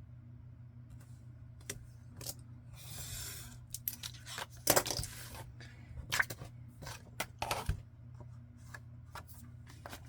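Paper being handled on a crafting table: a run of short, crisp clicks and snips with a longer rustle of paper sliding about three seconds in, over a low steady background hum.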